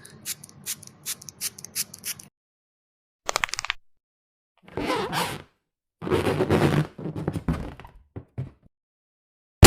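A string of separate short sound effects with silent gaps between them: a run of rapid clicks, then brief knocks, scrapes and noisy bursts, ending in one loud sharp thunk.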